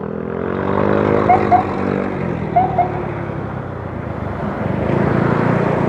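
Motorcycle engine running on the move, its note climbing over the first second and then easing down, with steady road noise that swells near the end. Two pairs of short high chirps are heard about a second and two and a half seconds in.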